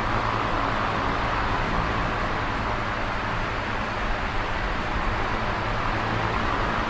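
Electric fan running steadily: an even whooshing of moving air over a low motor hum.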